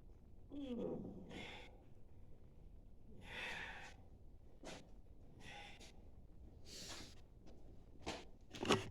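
A man sighing and breathing out in several soft puffs, with a few light clicks and knocks; the loudest click comes near the end.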